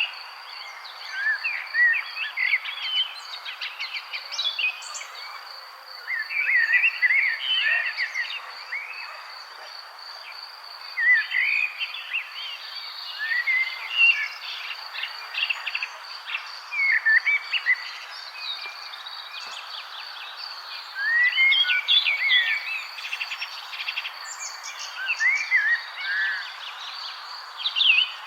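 Several songbirds chirping and singing in short bursts every few seconds, over a steady high-pitched insect trill.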